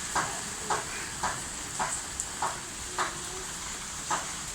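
Steady hiss of heavy rain, with a short sound repeating evenly about twice a second over it.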